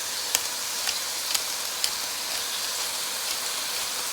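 Cabbage, cauliflower, carrot and onion stir-frying in an oiled pan: a steady sizzle with a few sharp crackles in the first two seconds.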